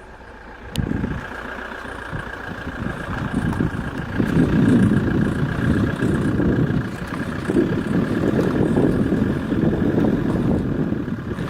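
Alfa Romeo 147 JTDm diesel making a strange rattling noise as the clutch is eased out and the throttle is pressed and released. The rattle starts about a second in and becomes much louder about four seconds in.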